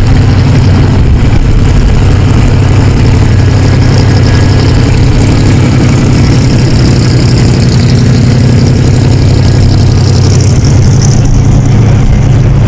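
A car engine idling steadily and loudly, with a constant low hum.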